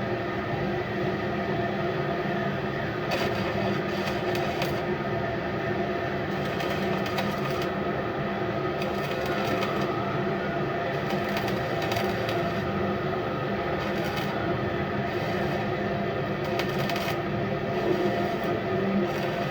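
Steady mechanical drone from running machinery, a constant hum with several held pitches, with scattered light clicks and crackles over it.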